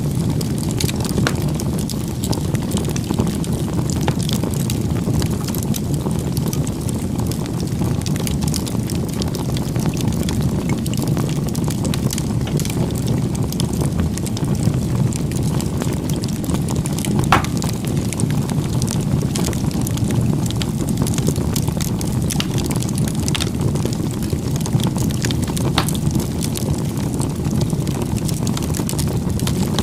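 Bonfire burning: a steady low rumble with scattered crackles and small pops, and one sharper pop about seventeen seconds in.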